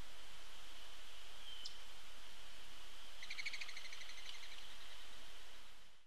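Garden bird feeder ambience: a steady hiss with a faint high steady whine. A single short bird chip comes about one and a half seconds in, and a rapid chattering bird call lasting about a second and a half starts a little past three seconds. The sound fades out at the end.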